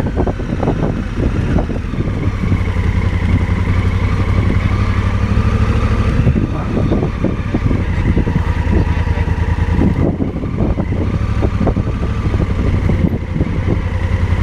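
Motorcycle engine running at a steady, unchanging speed, with scattered short knocks over it.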